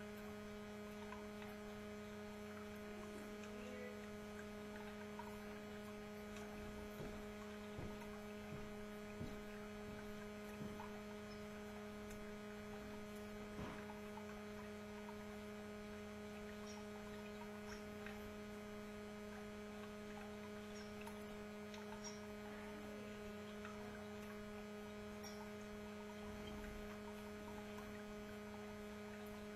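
Faint, steady electrical hum with several even tones, with a few faint small ticks and taps in the middle stretch.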